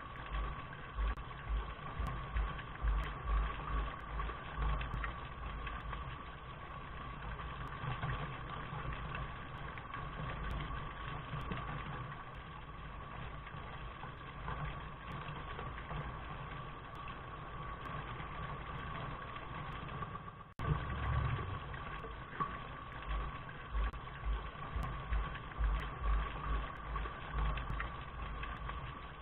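Steady rain noise with a low, uneven rumble underneath that swells and fades. The sound drops out for an instant about two-thirds of the way through, then carries on.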